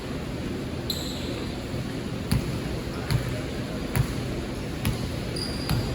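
Basketball being dribbled on a gym floor, five bounces a little under a second apart, over the hum of the hall.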